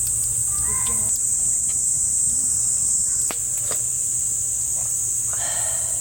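Steady high-pitched drone of summer night insects, with a few sharp light clicks in the middle and brief faint voice-like sounds near the start and the end.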